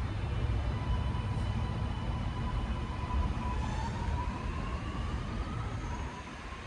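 Sydney Metro Alstom Metropolis train pulling away: its electric traction motors give a whine that rises in pitch as it accelerates, over a steady low rumble.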